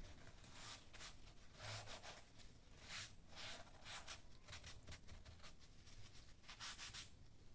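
Faint, irregular rustling and light scraping of hands handling objects at close range, a series of short scratchy strokes.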